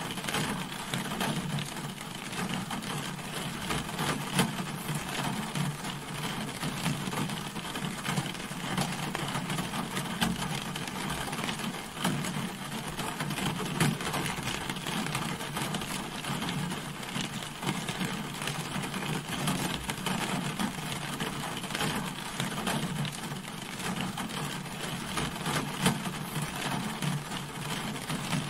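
Steady rain falling on a car, with dense drop impacts pattering on the bodywork.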